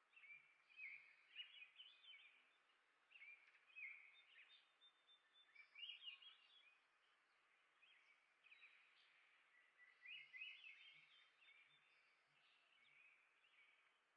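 Faint chirping and twittering of small songbirds, in short phrases of quick rising notes every couple of seconds.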